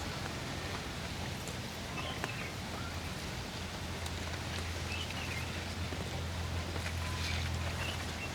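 Outdoor rural ambience: a steady hiss with a low hum underneath, and a few short bird chirps now and then.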